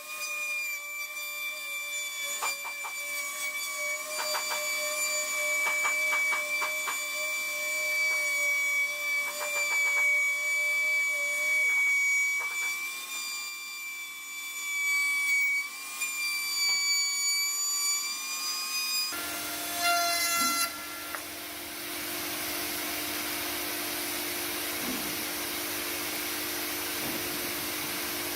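Woodworking power tool running with a steady, high, slightly wavering whine and a scatter of light ticks. About two-thirds of the way through it gives way abruptly to a different machine's steady rushing noise with a low hum.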